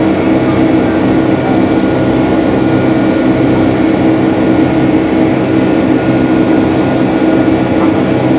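Steady drone of a Boeing 757-300's jet engines and rushing air, heard inside the passenger cabin, with a steady hum tone running through it.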